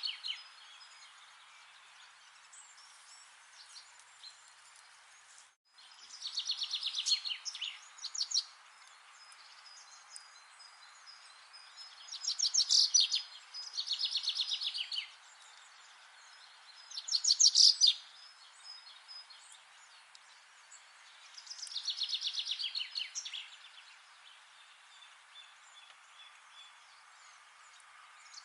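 A songbird singing about six rapid trilled phrases, each a second or two long and falling in pitch, with pauses of a few seconds between them over a steady faint hiss. The sound cuts out briefly about five and a half seconds in.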